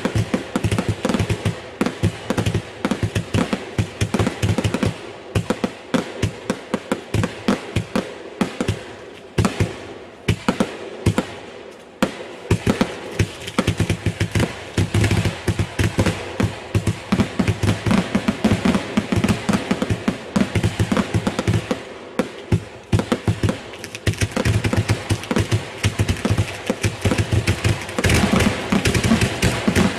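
Fireworks going off in rapid succession: a dense, continuous run of sharp bangs and crackles, several a second.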